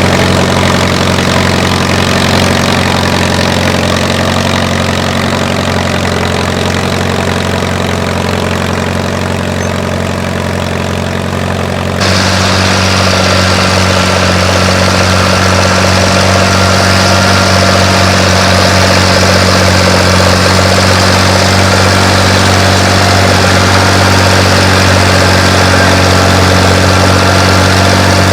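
Antique farm tractor engines running steadily as they plow. About twelve seconds in, the sound changes abruptly and becomes louder, with a different engine tone.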